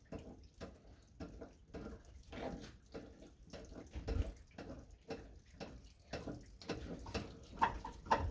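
Light, irregular clicks and scrapes of a wrench working the ignition switch's retaining nut loose on a tractor dash.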